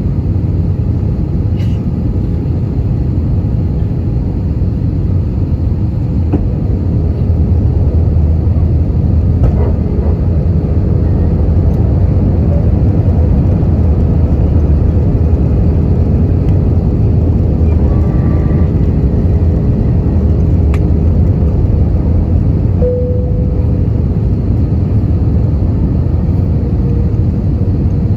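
Steady low rumble of an Airbus A320-200 heard from inside the passenger cabin: engine and airflow noise, with a steady hum that becomes more prominent near the end.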